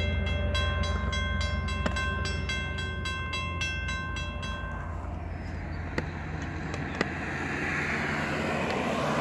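Via Rail passenger train rumbling past, with a bell ringing in a rapid even pulse that stops about five seconds in. Then a road vehicle's tyre noise grows louder toward the end, with two sharp clicks in between.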